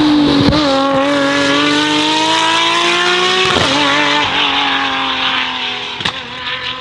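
Delage D12's 7.6-litre V12 hybrid powertrain pulling hard under acceleration, its pitch climbing steadily. About three and a half seconds in there is an upshift with a short click, and the pitch drops. The sound then fades as the car goes by.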